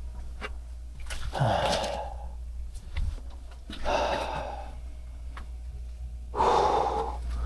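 A man blowing three long, forceful breaths onto a wood fire to get the kindling to catch, about two and a half seconds apart. A few sharp crackles come between the blows, over a steady low hum.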